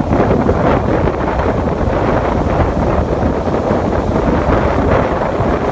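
Wind buffeting the microphone, a steady loud rushing rumble, with the wash of a ship moving through water underneath.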